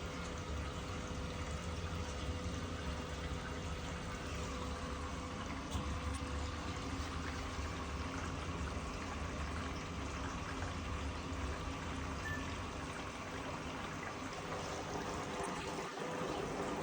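Washing machine drawing water into the drum at the start of a quick-wash cycle: a steady rush of inflowing water over a low hum.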